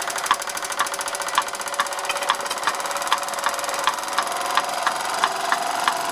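1930s Bing twin-cylinder toy steam engine running fast with a rapid, even beat, and a regular sharp tapping a couple of times a second from the model water mill's hammers that it drives.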